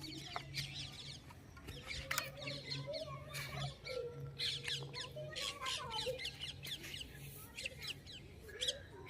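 Birds chirping and squawking, many short quick calls overlapping, over a low steady hum.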